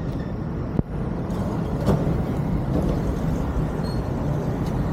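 Steady road rumble of a motorcycle ride in traffic, engine and wind noise together. A sharp click with a momentary dropout comes less than a second in, and a short knock about two seconds in.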